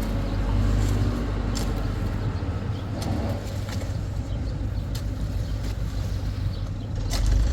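An engine running steadily at a low pitch, with a few sharp clinks or knocks now and then, from the machinery working a concrete pour.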